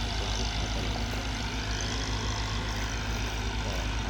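Steady low engine drone of a motorboat running on the river.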